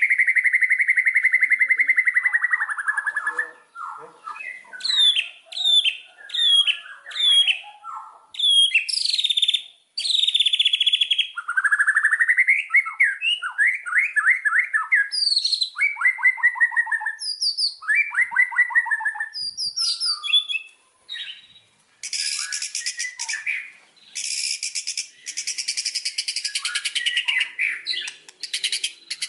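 White-rumped shama (murai batu) singing a long, varied song: a held whistle, then sharp rising and falling whistled notes and quick repeated note series, turning into a dense harsh chatter about 22 seconds in.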